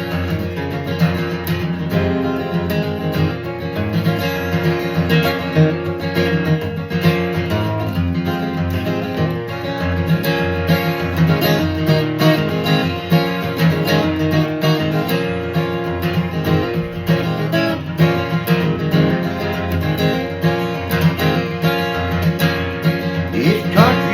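Instrumental break of a country song, led by a strummed acoustic guitar, with no singing.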